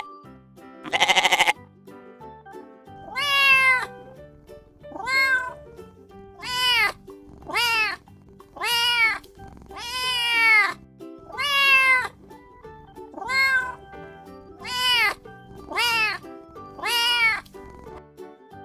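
Domestic cat meowing about eleven times in a row, each meow rising then falling in pitch, over soft background music. A short bleat, like the sheep call before it, comes about a second in.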